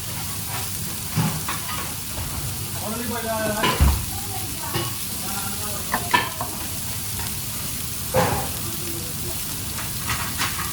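Food sizzling as it fries in a hot pan, a steady hiss, with utensils knocking and clicking against the pan several times.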